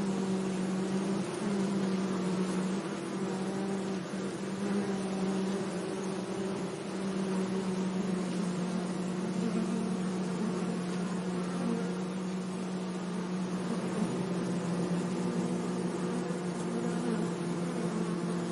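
Bees buzzing: a steady, low hum of wingbeats that wavers a little in pitch.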